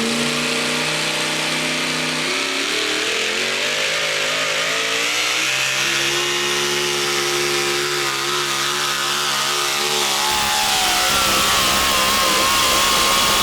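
Modified 4x4 pulling truck's engine running hard at high revs under load while it drags the weight-transfer sled down the track, its pitch shifting up and down in steps.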